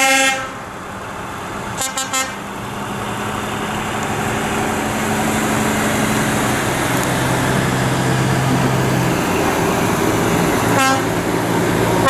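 Truck horns sounding: a blast that ends just after the start, two quick toots about two seconds in, and a short toot near the end. Between them a truck engine runs and grows steadily louder.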